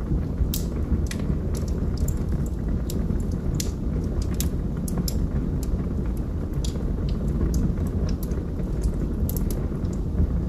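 Log fire burning in a fireplace: a steady low rumble of flames with sharp, irregular crackles and pops from the burning logs, about two or three a second.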